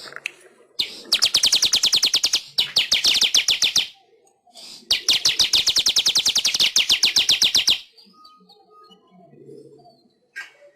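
Manyar weaver bird singing: two long runs of fast, rapidly repeated chattering notes, about a dozen a second, the second run starting about five seconds in, followed by a few faint chirps.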